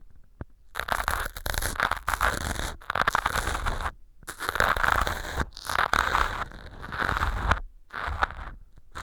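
An ear pick scraping and crunching dry floral foam (standing in for earwax) out of a silicone ear model, close to a binaural microphone. Crisp, gritty strokes start about a second in and come in runs with short pauses between them.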